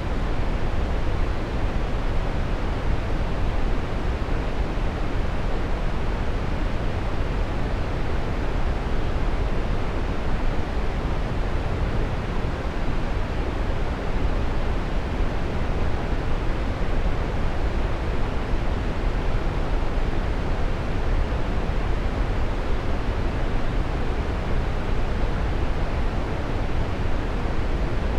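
Waterfall rushing, a steady even roar of falling water with no changes.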